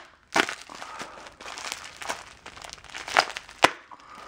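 Plastic packaging crinkling and rustling as it is handled, with a couple of sharper crackles.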